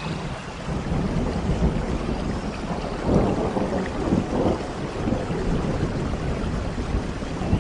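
Rain with a low rumble of thunder that sets in at the start and swells twice, about three and four and a half seconds in.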